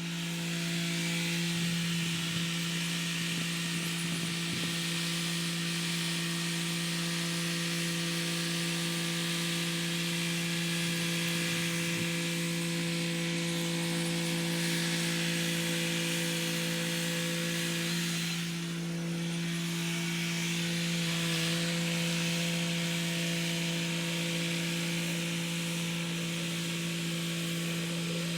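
Kubota SL35 tractor's diesel engine running at a steady working speed with the rotary tiller turning soil: a constant drone of unchanging pitch with a rushing noise over it, dipping briefly about two-thirds of the way through.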